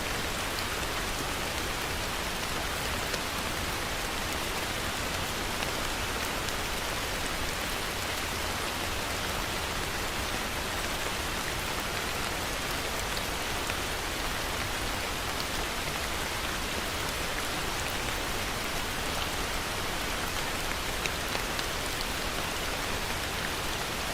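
Heavy rain falling steadily: a dense, even hiss of rain, with faint scattered drop ticks.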